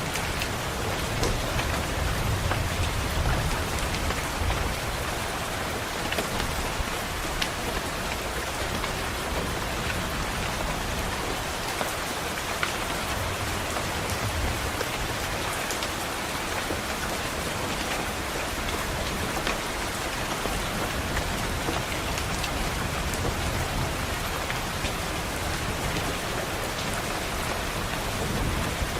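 Steady rain pattering on a window, with scattered drops ticking, and low rumbles of distant thunder that swell in and out, strongest in the first few seconds.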